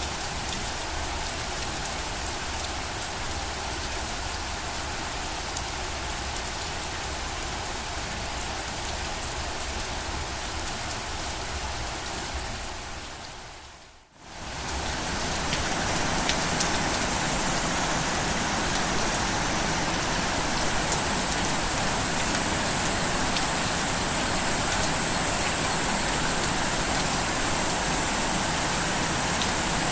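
Steady rain falling. About halfway through it fades out and a second, louder rain recording fades in. A thin, high, steady tone rides over the rain in the later part.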